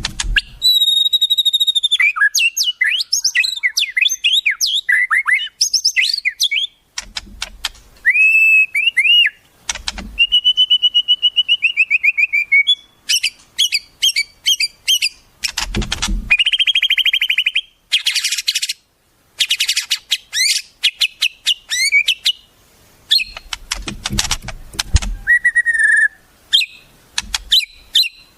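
Wild songbirds singing and calling in quick succession: clear whistles that rise and fall, rapid trills and fast strings of clicking notes, with a few low thumps in between.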